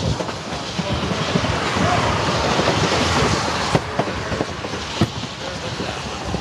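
Open car of the Durango & Silverton narrow-gauge steam train running down the track: a steady rumble and rush of air, with a few sharp clicks from the wheels on the rails.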